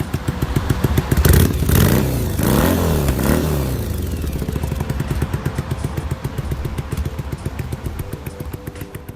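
Motorcycle engine blipped several times, rising and falling in pitch between about one and three and a half seconds in, then settling to a steady idle that fades toward the end.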